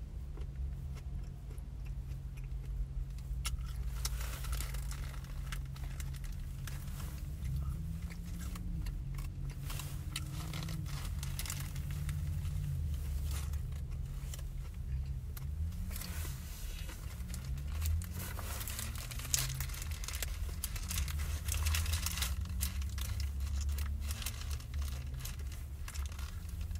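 Close-up chewing of a burger, with the paper wrapper crinkling and rustling in the hands at intervals, over a steady low hum in the car's cabin.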